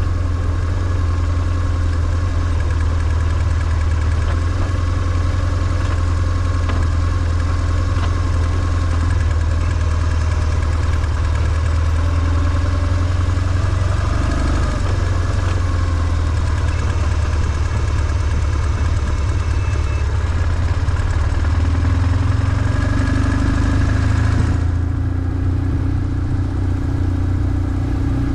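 BMW R1150GS's air/oil-cooled boxer twin running at steady low revs, its pitch barely changing. A higher hiss over it drops away near the end.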